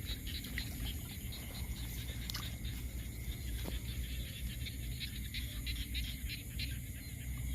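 Night chorus of small animals, typical of frogs and insects in a flooded field: many short, irregular clicking calls over a low steady rumble.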